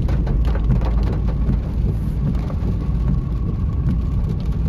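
Inside a Tata Tiago driving in heavy rain: a steady low road and engine rumble, with raindrops tapping on the car's body and glass, thickest in the first second or so.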